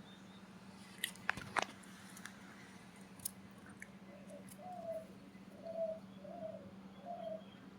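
Dove cooing in the background, a run of five short, low notes in the second half. A few sharp clicks come about a second in, over a faint steady hum.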